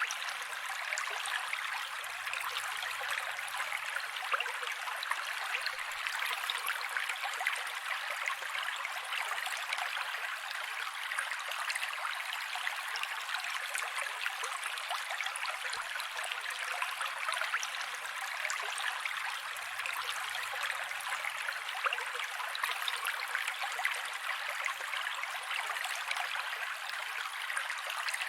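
Mountain creek flowing steadily, an even rushing and splashing of water with fine crackles and almost no low rumble, repeating as a loop about every 17 seconds.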